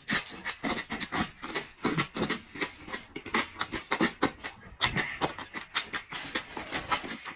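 Close-up chewing and crunching of food, a run of irregular quick crunches, several a second.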